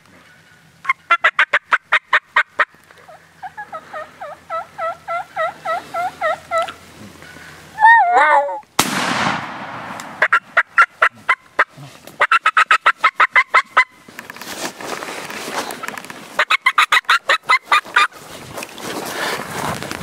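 Wild turkeys calling in quick repeated runs of yelps, then a single shotgun blast about nine seconds in that echoes away, followed by more runs of turkey calls from the flock.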